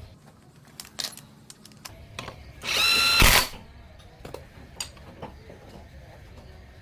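A power tool runs in one short burst of just under a second, a bit before the middle, with a steady whine. Scattered clicks and clinks of tools on metal come before and after it.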